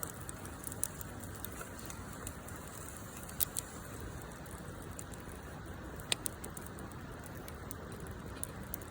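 Wood fire burning, with a steady hiss and a few sharp crackling pops.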